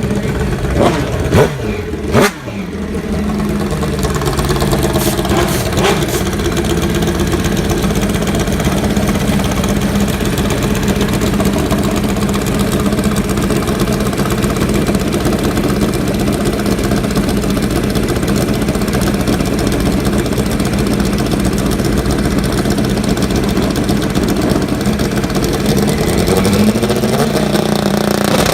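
Drag-racing motorcycle engines, with a few sharp throttle blips and falling revs in the first few seconds, then running at a steady drone that rises near the end.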